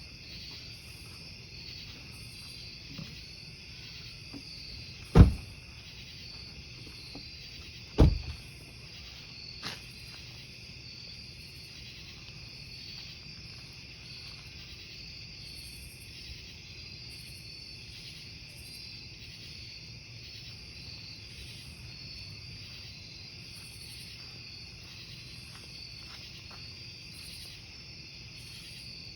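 Crickets chirping steadily, with a higher chirp pulsing about once a second above them. A wood fire's burning logs pop loudly twice, about five and eight seconds in, and once more softly near ten seconds.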